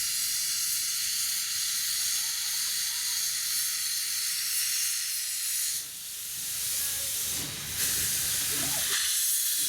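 Steam locomotive venting steam: a loud, steady hiss that dips briefly about six seconds in.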